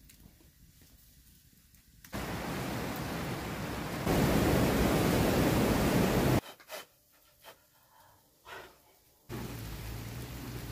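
Quiet at first, then a steady rushing hiss of water starts suddenly about two seconds in, grows louder about two seconds later and cuts off abruptly at about six and a half seconds. After a few soft knocks, steady rain noise with a low hum starts suddenly near the end.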